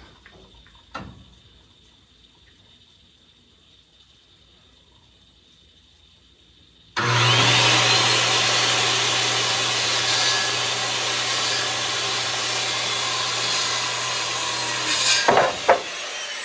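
After a few quiet seconds, a corded circular saw starts up about seven seconds in with a brief rising whine and cuts through a wooden board for about eight seconds, then stops suddenly. A couple of sharp knocks follow near the end.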